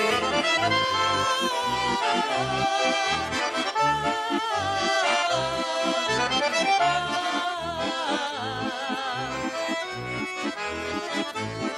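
Accordion playing an instrumental interlude between the verses of a Russian folk song: a melody over a steady, regularly pulsing bass.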